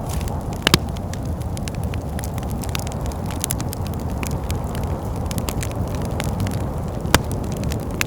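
Wood fire crackling in a fireplace, a steady run of small snaps with a couple of louder pops, one shortly after the start and one near the end, over a steady low rumble.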